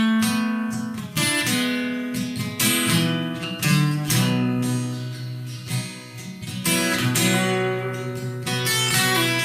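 Acoustic guitar strumming and picking chords in an instrumental passage of a slow song, with each chord left to ring.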